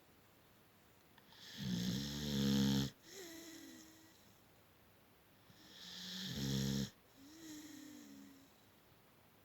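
A beagle snoring in its sleep: two loud snores, each building over about a second and stopping abruptly. Each is followed by a quieter, whistling breath whose pitch rises and then falls.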